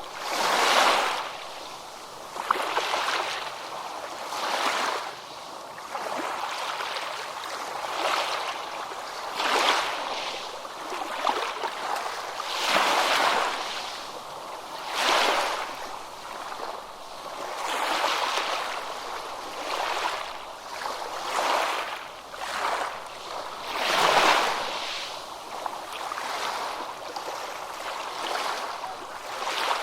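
Ocean surf: a continuous wash of breaking waves rising and falling every couple of seconds, with louder breakers about a second in, around 13 and 15 seconds in, and at 24 seconds.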